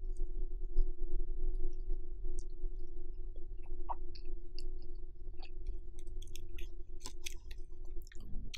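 Close-miked chewing of a mouthful of spicy stir-fried Neoguri noodles: soft, wet mouth clicks and smacks, sparse at first and quicker near the end, over a steady low hum.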